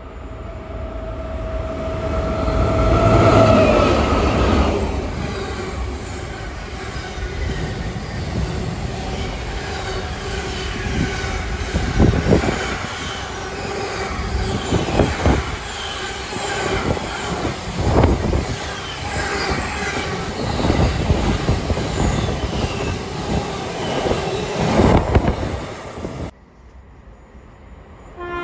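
A train passing close by on the main line: a rumble that builds, a whine that drops in pitch as the front goes by, then steady wheel-on-rail noise with a heavy thud every few seconds. The sound cuts off suddenly near the end.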